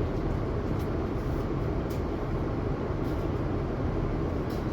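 Steady cabin noise inside a Boeing 787-9 airliner in flight: an even, low rush of airflow and engine noise with no change.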